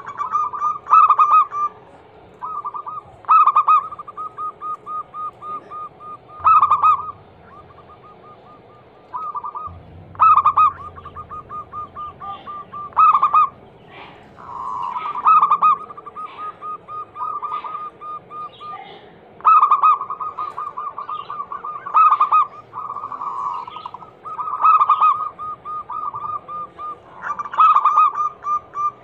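Zebra doves (perkutut) cooing: phrases of rapid, evenly spaced staccato coos at a steady pitch, repeated every couple of seconds, with some phrases overlapping as more than one bird calls.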